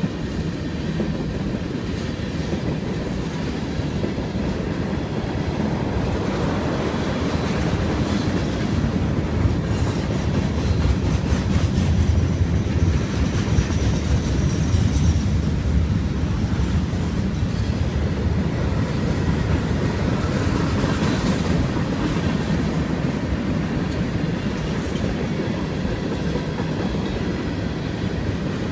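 Freight cars of a mixed train (tank cars, gondolas, covered hoppers) rolling past: a steady rumble of steel wheels on rail with clickety-clack over the rail joints, a little louder about halfway through.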